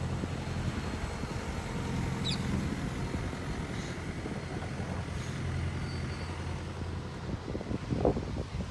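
Road vehicle engine running with a steady low hum. A short knock comes about eight seconds in.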